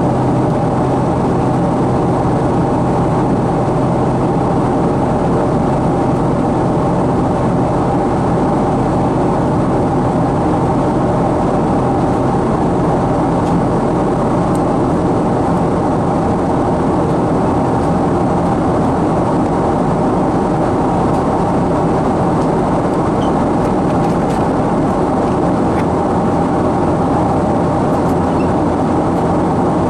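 Steady engine and airflow noise inside the cabin of a Boeing 777-200 climbing after takeoff: a constant loud drone with several steady held tones.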